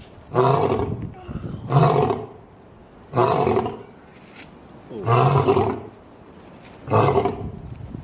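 Lion roaring: five short roars in a row, each under a second, about one every one and a half to two seconds.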